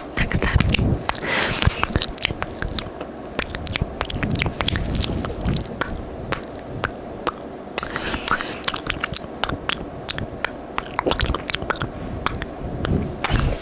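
Close-miked wet mouth sounds: rapid, irregular tongue and lip clicks and smacks, with a few short breathy hisses.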